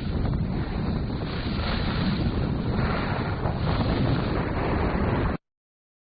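Steady rushing of wind on the microphone and surf, strongest in the low end, cutting off abruptly a little over five seconds in.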